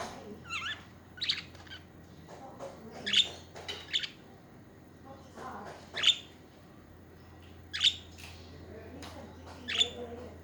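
Pet budgerigars chirping: about seven sharp, short calls a second or two apart, some sliding in pitch, with soft chatter between them.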